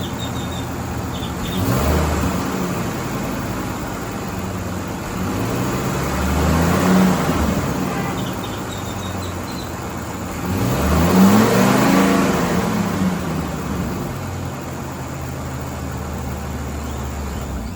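Ford F550 truck engine idling and revved three times, each rev rising and falling back to idle, the last and highest about eleven seconds in.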